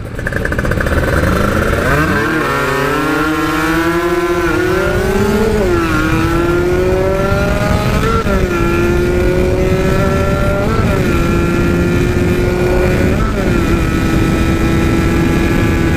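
Kawasaki Ninja 150 RR two-stroke engine under hard acceleration. The revs climb and drop sharply at each upshift, about five gear changes, then hold high and nearly steady near the end.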